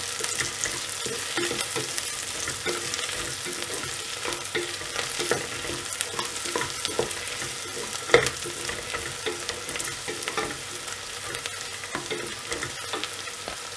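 Onions, green chillies and whole garlic cloves sizzling as they fry in an aluminium pressure cooker, while a wooden spoon stirs and scrapes against the pot with many small clicks. One louder knock of the spoon comes about eight seconds in.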